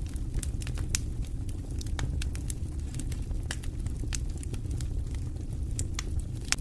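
Wood fire burning in a fireplace: a steady low rumble of flame with irregular sharp crackles and pops, a few each second.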